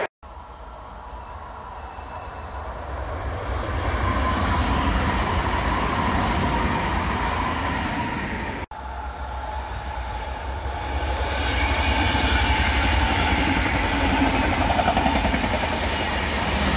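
Electric trains running past on the line: a rumble and wheel-on-rail noise that builds as a train draws near. The sound breaks off suddenly about halfway, then a second train, an electric locomotive hauling double-deck passenger coaches, grows louder as it passes close.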